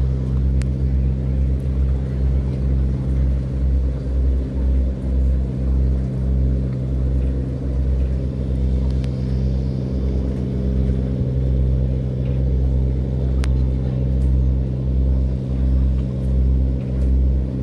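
Boat engine running steadily under load: a low, even drone with a slow, regular throb underneath.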